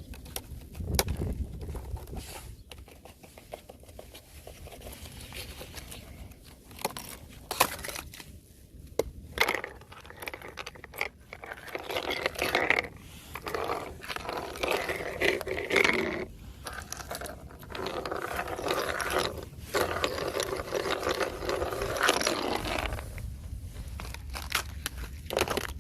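Thin fresh ice cracking and crunching as it breaks. A few sharp separate cracks come first, then a long stretch of dense crackling and crunching that fades near the end.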